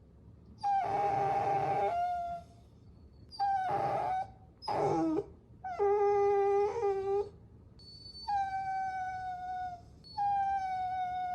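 Puppies whining: a series of about six high, drawn-out whines with short pauses between them, a few rough and breathy, one sliding down in pitch.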